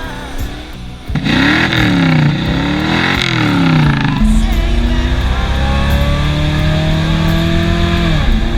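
Car engine revved up and down several times, then held in one long, steady climb in pitch as it accelerates, dropping away near the end.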